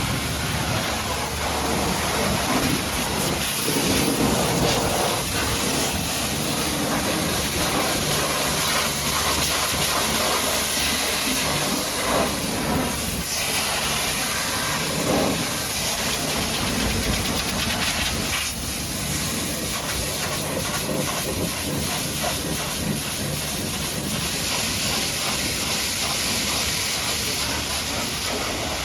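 Pressure washer jet spraying water against a truck, a steady hiss whose tone shifts as the spray moves over different surfaces.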